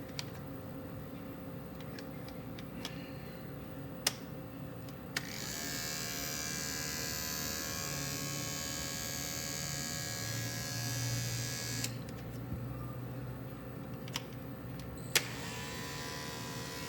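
Andis Pulse cordless dog clipper running steadily with freshly oiled detachable blades, working the oil into them. Sharp clicks come about four and five seconds in and again near the end, and the buzz turns brighter and louder for several seconds in between.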